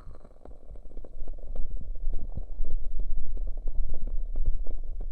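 Hands cupping and pressing over the ears of a binaural dummy-head microphone: a close, muffled rumble with many small crackles. It swells louder about a second in.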